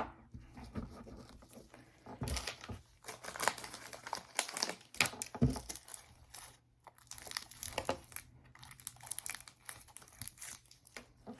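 Packaging crinkling and tearing in irregular bursts as medical supply wrappers, such as an alcohol swab packet, are opened and handled.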